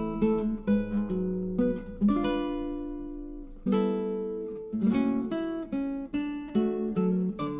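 Background music: acoustic guitar played with plucked and strummed chords that ring and fade.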